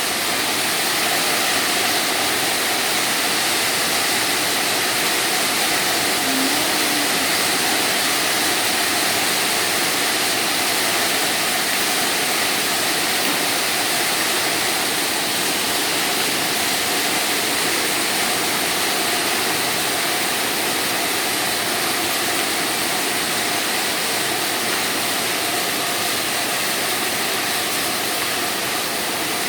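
Heavy hail and rain falling, a steady, dense hiss.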